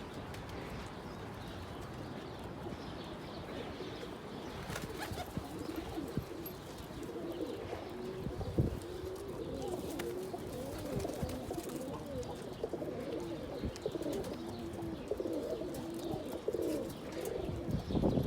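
Domestic pigeons cooing, a steady run of low, wavering coos that thickens from about four seconds in, with a brief knock a little before halfway.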